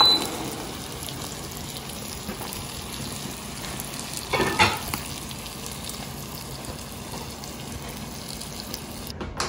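Beef, onions and melted cheese sizzling steadily in a heavy pan, with one brief louder noise about four and a half seconds in.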